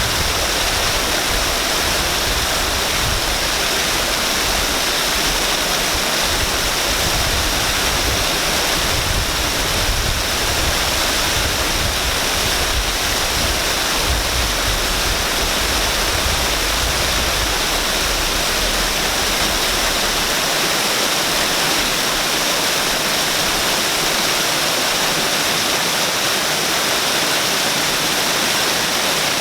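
Waterfall: a steady rush of falling water with a hissy top. The low rumble fades out about two-thirds of the way through.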